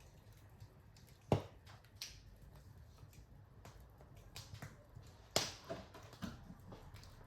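Wood fire crackling, with sharp pops about a second in and again a little after five seconds, the second followed by a run of smaller crackles, over a low steady rumble of the flames.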